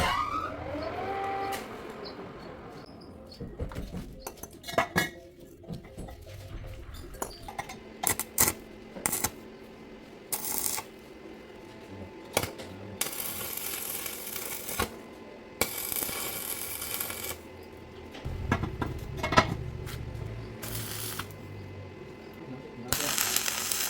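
Metal parts clinking and knocking during metalwork, with scattered sharp taps and several bursts of hissing noise lasting a second or two.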